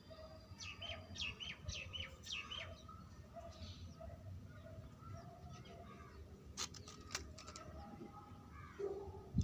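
Small birds chirping, a quick run of short falling chirps in the first few seconds, over a faint low rumble, with two sharp clicks about two-thirds of the way through.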